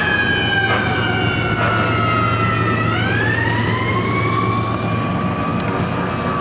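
Fire engine siren wailing: its pitch slides slowly down, then turns about three seconds in and climbs back up, over the truck's steady engine hum.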